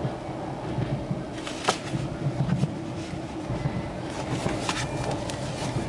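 Cabin noise of a double-decker electric train in motion: a steady low rumble with a few sharp clicks, one about a second and a half in and several near the end.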